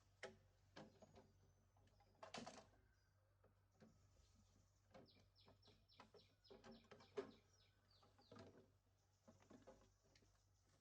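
Faint, scattered knocks and taps, with a quick run of short high bird chirps in the middle.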